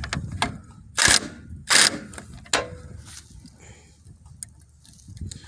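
Metal-on-metal clanks and scrapes from hand tools working on a tractor's steering drag link: two loud strokes about a second apart, then a lighter clink with a short ring.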